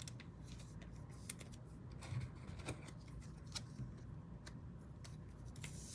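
Faint, scattered light clicks and rustles of trading cards being handled and sorted.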